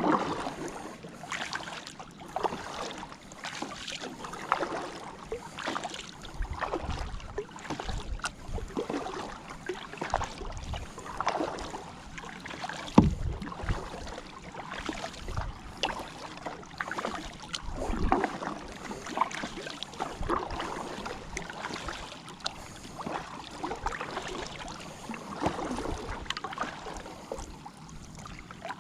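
Kayak paddle strokes splashing in and out of the water, with dripping between strokes. One sharper knock comes about halfway through.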